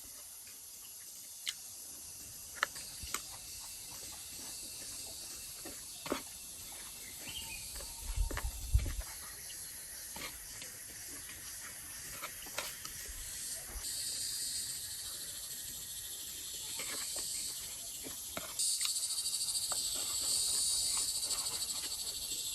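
High, steady insect buzzing, joined by a louder high buzz about two-thirds of the way through, with scattered small clicks and knocks.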